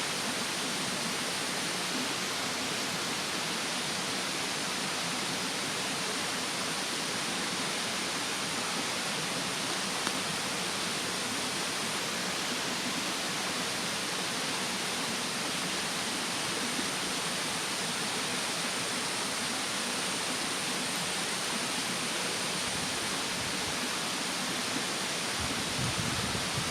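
Steady rushing of a mountain stream beside a burning wood campfire, with a faint steady high tone over it and a single sharp pop about ten seconds in. A low rumble rises near the end.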